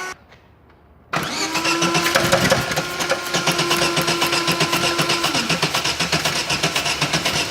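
Chevrolet Corsa engine starting about a second in after a short quiet gap, then idling with a fast, even ticking: the engine noise being diagnosed.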